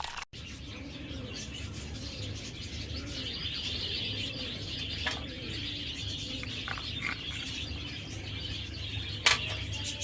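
Birds chirping in the background, with two sharp clicks, one about halfway through and a louder one near the end.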